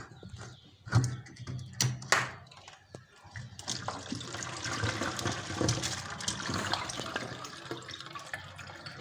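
A few sharp knocks, then water pouring and splashing from about three and a half seconds in.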